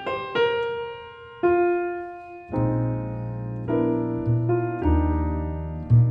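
Grand piano and double bass playing a slow piece. Piano chords are struck roughly once a second and ring out, and plucked double bass notes join about two and a half seconds in.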